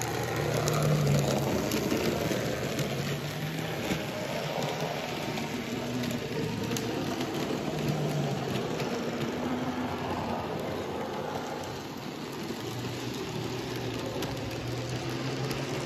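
Tiny narrow-gauge model locomotive running along its track on a model railway layout: a steady, fine rattling whirr with faint motor hum and light clicks.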